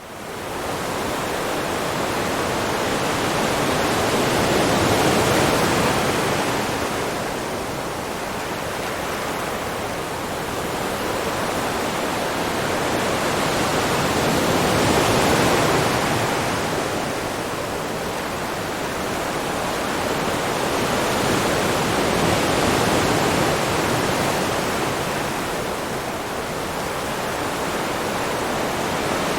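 Steady rushing noise of sea water, swelling and easing slowly about every eight to ten seconds.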